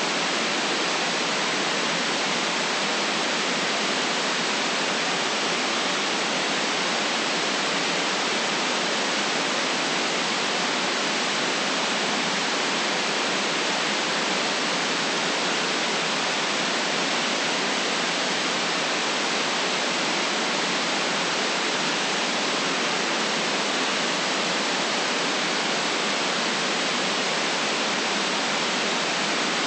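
Steady synthetic white noise, an even, unchanging hiss with its low bass and top treble cut off.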